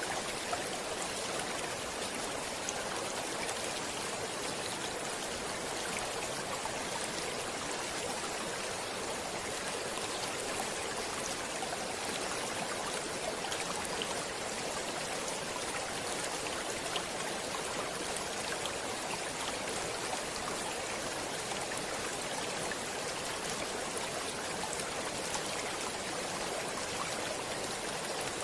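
Stream water flowing: a steady, even rush.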